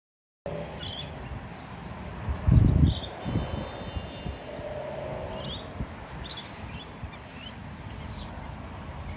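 Parrots chirping: many short, high, sweeping calls scattered throughout. About two and a half seconds in there is a brief low rumble on the microphone.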